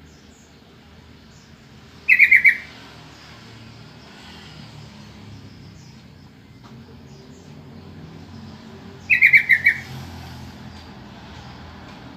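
Yellow-vented bulbul (trucukan) giving two short calls about seven seconds apart, each a quick run of about four notes.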